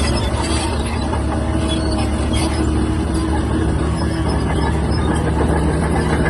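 Shantui DH17-C3 bulldozer's diesel engine running steadily, with scattered light clanks from the machine working.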